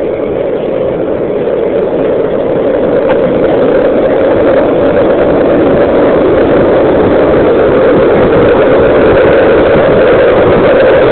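Longboard wheels rolling on pavement downhill, with wind noise on the microphone: a steady roar that grows louder over the first few seconds as speed builds, then holds.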